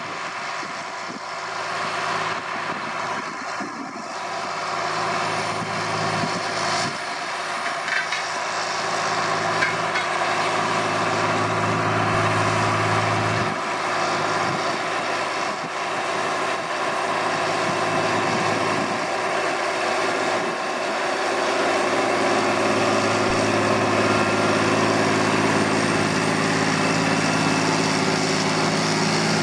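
John Deere 8400's six-cylinder diesel engine running steadily under load while pulling a tandem disc through a field, growing louder as the tractor comes closer.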